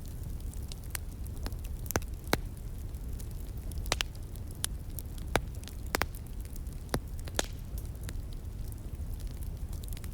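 Wood fire crackling, with irregular sharp pops and snaps over a steady low rush of flowing water.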